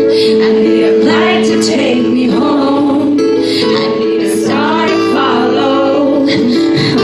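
Live music: a woman singing a slow ballad with gliding, held notes over sustained instrumental chords.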